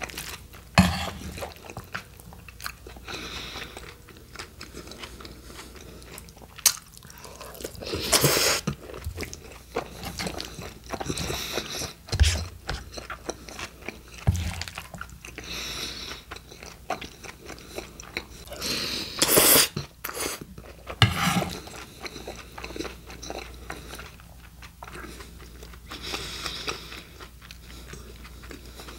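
Close-miked chewing of mouthfuls of steak burrito, an uneven run of small mouth clicks, with a few louder bursts about 8 and 19 seconds in.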